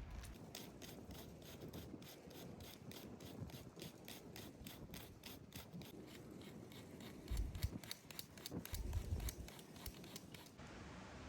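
Repeated rasping strokes, about three a second, with two heavier low thuds in the second half; the strokes stop shortly before the end.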